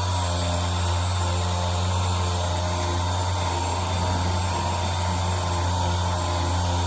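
Electric buffer's motor running steadily at high speed with a constant hum, its buffing pad polishing a plastic headlight lens.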